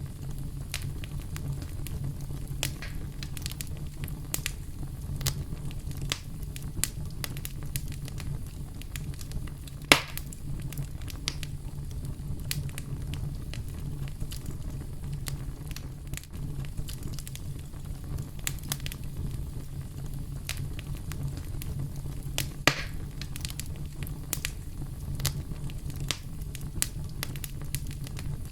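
Campfire burning: a steady low rumble of flames with irregular crackles and sharp pops of burning wood, two pops louder than the rest, about ten seconds in and again past twenty-two seconds.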